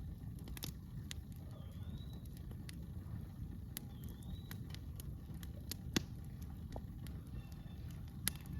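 Campfire crackling, with irregular sharp pops from the burning wood, two of them louder, about six seconds in and near the end. A bird repeats a short rising call about every two seconds in the background.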